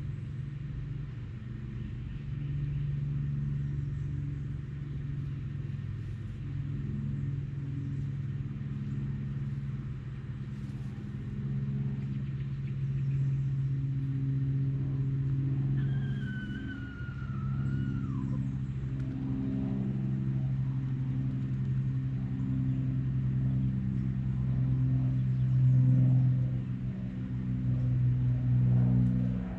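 A low, steady engine-like hum. About halfway through, one drawn-out call falls in pitch over about two seconds.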